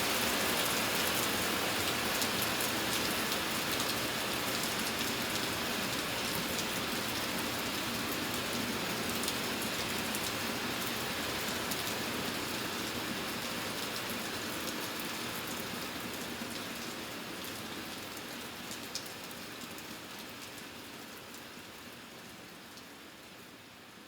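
Steady rain, fading out gradually over the second half.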